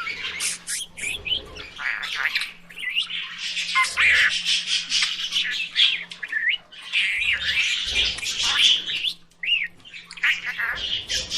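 Budgerigars chattering and chirping continuously, a busy mix of quick warbles, squawks and short rising and falling whistles.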